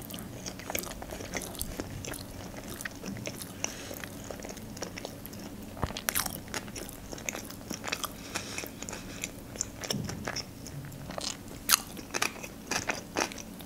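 A person chewing sushi rolls close to the microphone: a steady run of wet mouth clicks, smacks and small crunches, several a second.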